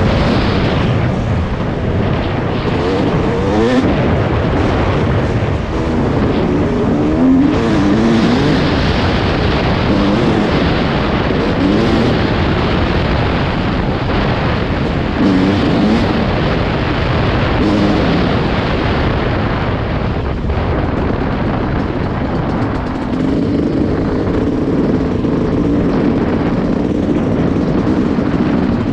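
Yamaha YZ250 two-stroke single-cylinder dirt bike engine being ridden on a trail, its pitch rising and falling again and again as the throttle is worked on and off.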